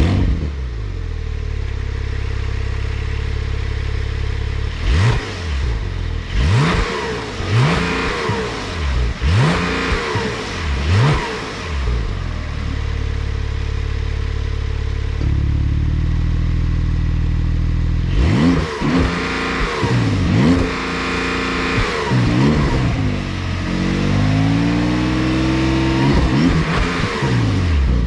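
2022 Porsche 911 Turbo's 3.8-litre twin-turbo flat-six accelerating hard through the eight-speed dual-clutch's gears. The engine note climbs and drops back at each quick upshift, in two bursts, then falls away near the end.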